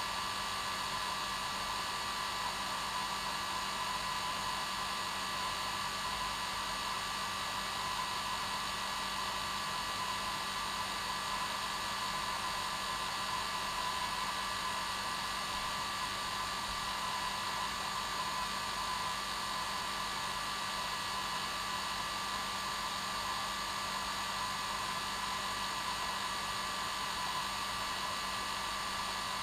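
Hair dryer running steadily: a constant rushing blow with a steady whine and a low hum, unchanging throughout.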